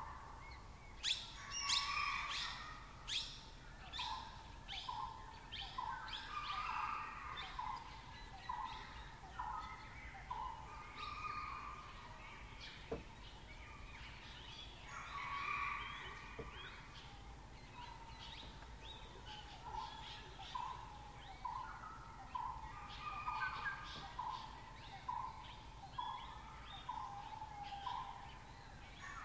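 Birds calling in dry forest: a steady series of short repeated whistled notes, about one to two a second, with sharp high chirps mixed in during the first few seconds.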